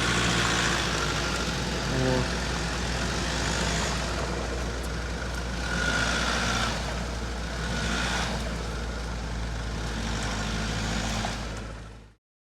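Off-road 4x4 engine running steadily with outdoor noise, fading out near the end.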